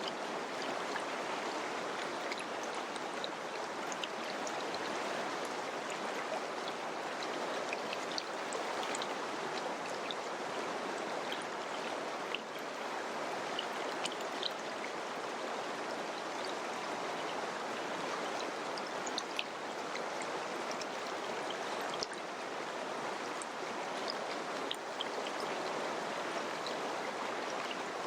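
Mountain river running over rocks: a steady rushing of water with small splashes and droplets.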